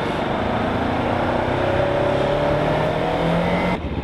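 Motorcycle engine accelerating, its pitch rising steadily, then dropping away suddenly near the end.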